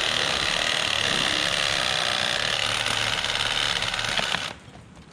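Power saw cutting through a bound log, running steadily under load, then stopping abruptly about four and a half seconds in.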